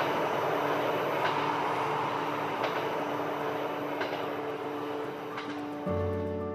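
Train rolling along the track with a steady rumble, its wheels clicking over the rail joints about every second and a half. Music comes in near the end.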